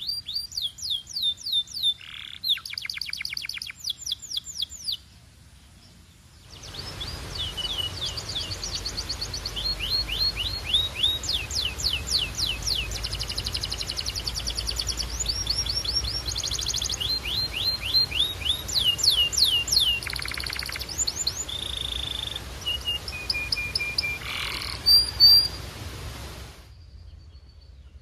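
Domestic canary singing: fast trills of rapidly repeated falling whistled notes, changing from one trill to the next, with a few held steady notes near the end. There is a brief break about five seconds in, after which the song continues over a faint background hiss.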